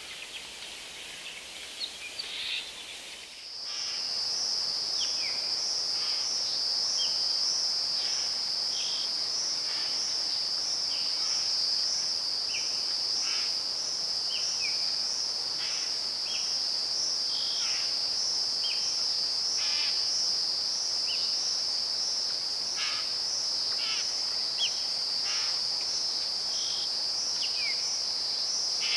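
Insect chorus: a steady, high, slightly pulsing trill that starts suddenly about three and a half seconds in and carries on, with short bird chirps and whistles scattered over it. Before the trill, only scattered bird chirps are heard.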